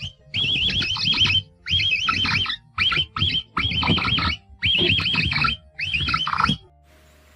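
An animal calling in about seven short bursts, each a fast, wavering high-pitched warble, stopping just before the end.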